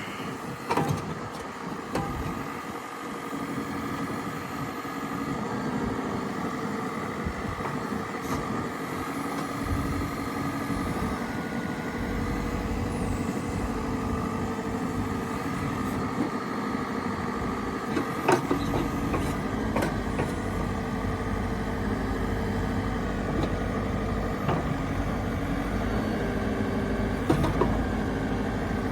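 2011 JCB 3CX backhoe's diesel engine running steadily, its low rumble growing stronger about halfway through. A few short knocks or clanks stand out over it.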